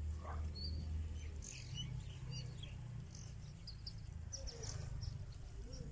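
Birds chirping: many short, high chirps scattered throughout, over a steady low rumble.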